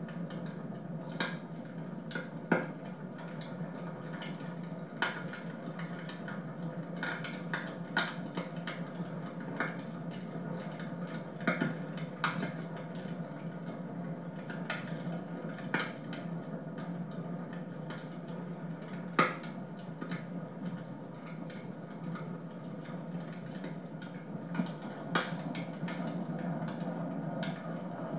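Wood fire burning in a fireplace: irregular sharp crackles and pops over a steady low rush, with two louder pops, one near the start and one about two-thirds through.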